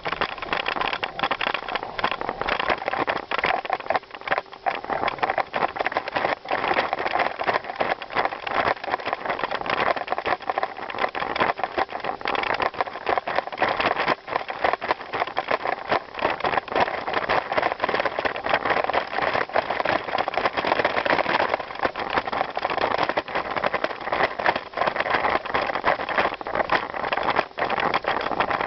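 Bicycle tyres rolling over a gravel trail: a steady, dense crunching crackle that keeps up without a break.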